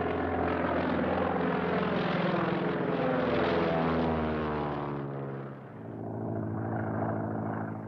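Propeller engine of a biplane running steadily, its pitch sliding down as it passes by, then droning on at a lower, even pitch.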